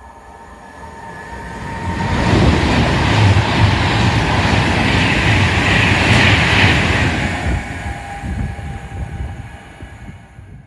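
Class 390 Pendolino electric express train passing through at speed without stopping. The rush of wheels and air builds about two seconds in, stays loud for about five seconds, then fades away near the end.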